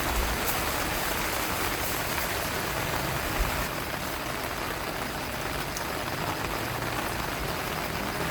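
Steady rushing noise of wind and rain, with some low rumble and a few faint ticks.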